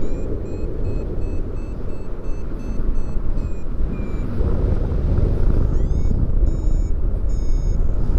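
Wind rushing over the microphone in flight, with a paragliding variometer beeping in quick repeated tones, about four a second, the sign of climbing in lift. The beeps stop around four seconds in and start again with a rising chirp near six seconds.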